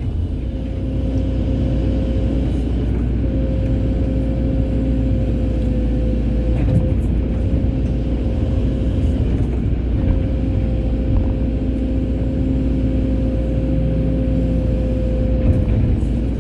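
Hydraulic excavator running under load: a steady, heavy diesel rumble with a held whine over it that drops out briefly twice.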